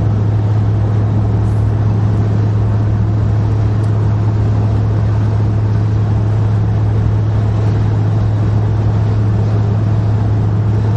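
Steady drone of a car driving, heard from inside the cabin: a constant low hum over an even rushing road noise.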